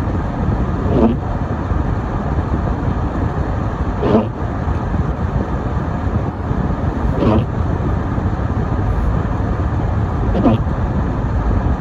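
A car driving on a snowy road: steady low road and engine rumble. About every three seconds there is a short sound that slides down in pitch.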